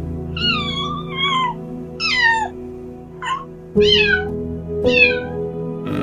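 Domestic cat meowing about five times, each meow falling in pitch, the first the longest and one near the middle very short, over steady background music.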